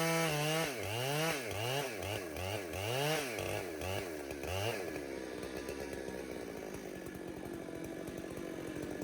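Chainsaw coming off full throttle, then revved up and down in a quick series of throttle blips, about two a second, before settling to a steady idle for the last few seconds.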